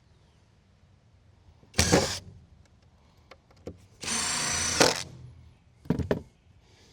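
Power drill driving screws into the shed's wooden deck boards: a short burst about two seconds in, a steadier run of just under a second around four seconds in, and another short burst near the end.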